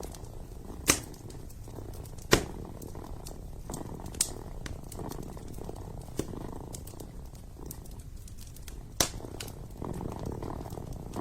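Kitten purring steadily, with a wood fire crackling and giving several sharp pops, the loudest about a second in, at about two and a half seconds, and near the end.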